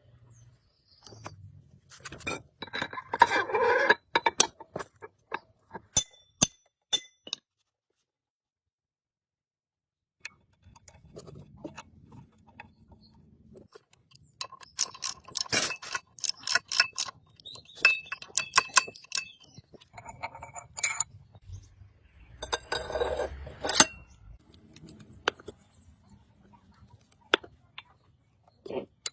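Sharp metallic clinks and taps in irregular clusters, typical of tools working on metal parts, broken by a few seconds of dead silence about a third of the way through.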